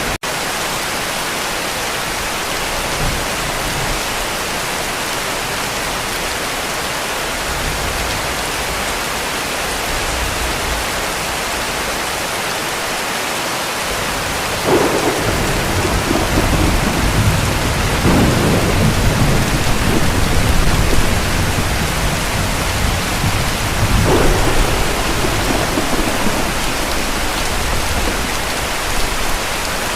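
Heavy rain falling steadily, with a split-second dropout just after the start. From about halfway through, distant thunder rolls in as deep rumbles that swell several times.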